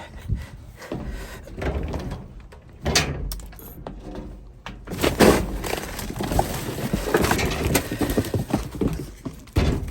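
Irregular knocks, bumps and rustling of someone climbing into a dumpster and moving through the trash inside, busier from about halfway through.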